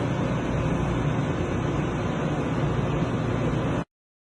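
Steady rumbling noise, heaviest in the low end and without any clear tone or rhythm, cutting off abruptly near the end.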